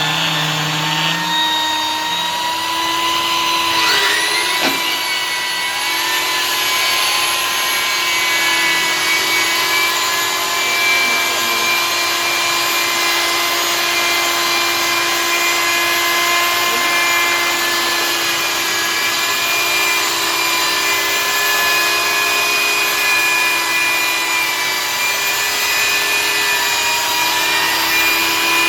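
Electric glass-polishing machine running with a steady motor whine, its pitch rising and settling at a higher speed about four seconds in.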